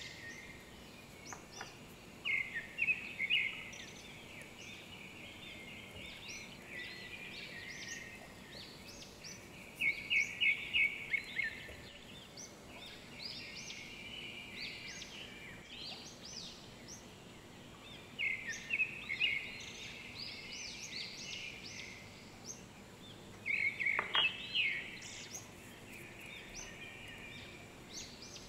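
Birds chirping: quick runs of short, high notes that come in bursts every few seconds, over a faint steady background hiss.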